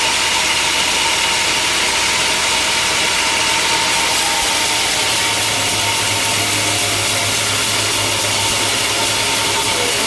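Sawmill machinery running steadily, engine noise with a saw working through wood, a loud constant din with a steady whine. About halfway through, a deeper hum joins in.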